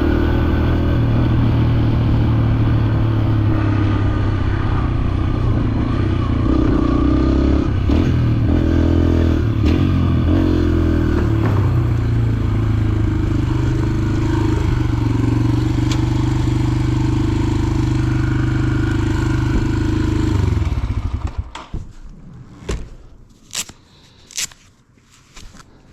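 Dirt bike engine running steadily, its pitch wavering briefly around eight to ten seconds in, then cutting off suddenly about twenty seconds in. A few sharp clicks follow once it has stopped.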